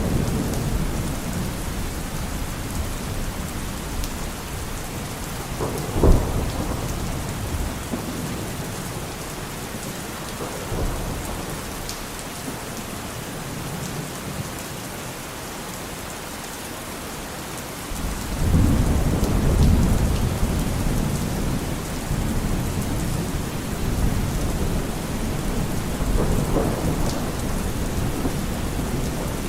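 Steady rain with thunder: a sharp crack about six seconds in, then a long low rolling rumble a little past the midpoint, and a fainter rumble near the end.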